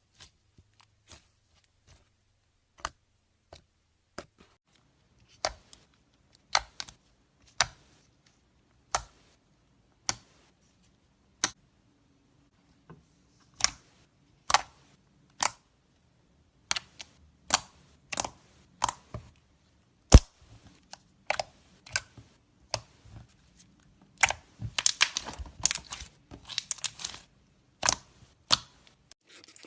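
Slime being handled, giving sharp pops and clicks about once or twice a second, with a denser run of quick pops near the end.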